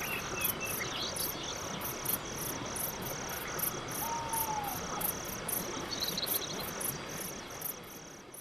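Crickets chirping at night in a steady, even rhythm, about two and a half high chirps a second, over a soft background hiss. A single short whistled note sounds about four seconds in, and the sound fades out near the end.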